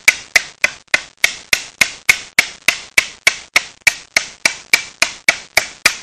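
A bolo (thin steel machete blade) chopping at the edge of a mahogany board in quick, even blows, about three to four strikes a second, chipping the wood away to shape a canoe paddle.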